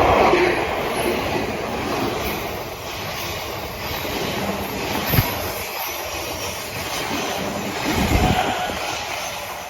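Odakyu limited express (Romancecar) electric train running past, loudest at first and then fading as it draws away. There is a short knock about five seconds in and low rumbling thumps near the end.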